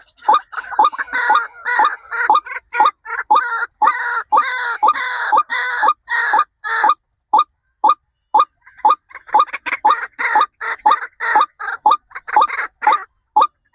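A bird calling over and over in short, sharp, pitched calls, about two to three a second, without a break.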